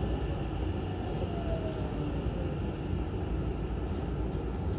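Inside a Hankyu 9000-series train car: steady low rumble of the train rolling slowly into a station, with a faint falling whine about a second in as it brakes.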